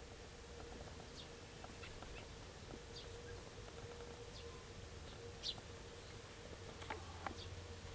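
Faint, short, high bird chirps at scattered intervals, about half a dozen, the loudest about halfway through, with a couple of sharp clicks near the end over a steady faint hum.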